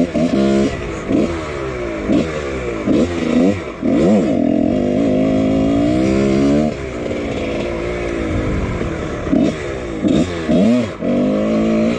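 1999 Husqvarna CR125 two-stroke dirt bike engine, ridden hard, its revs rising and falling over and over as it is throttled and shifted. There is a longer steady high-rev stretch from about four to seven seconds.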